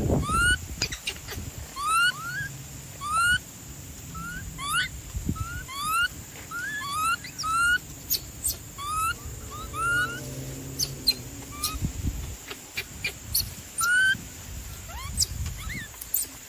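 Birds calling: a steady run of short, upward-sliding peeps, a few each second, with fainter low sounds underneath at times.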